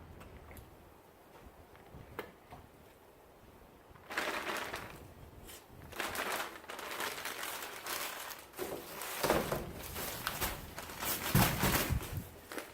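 Plastic sack of potting material being handled, crinkling and crackling in bursts that start about four seconds in after a quieter stretch.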